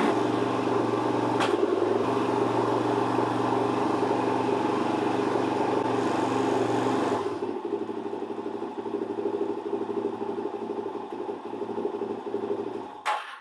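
Suzuki DR-Z400's single-cylinder four-stroke engine running steadily just after starting, its first run after being serviced and reassembled. About seven seconds in, the sound turns quieter and duller.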